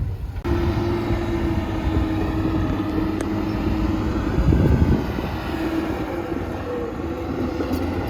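Heavy earthmoving machine's diesel engine running steadily under load, with a steady whine over the low rumble. The sound surges louder for a moment about four and a half seconds in.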